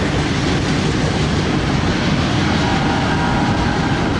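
Norfolk Southern freight train passing, a steady loud rumble of its cars rolling on the rails.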